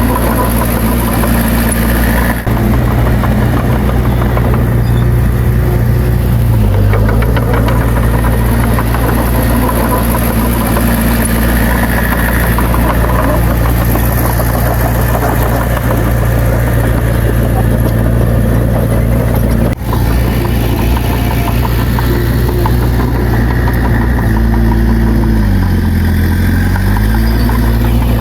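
Bulldozer's diesel engine running loud and steady at working revs. Its pitch sags and recovers twice, briefly about a quarter of the way in and for longer near the end, and the sound breaks off for an instant twice.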